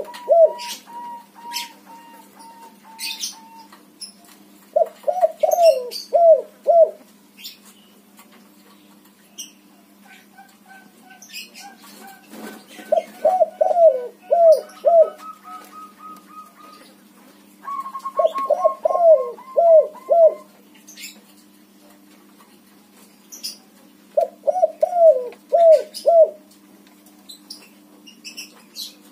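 Spotted dove (tekukur) cooing in repeated bouts. Each bout is a quick phrase of four or five notes, and a new one starts about every five to six seconds. Fainter runs of thin, evenly repeated higher notes come in between the bouts.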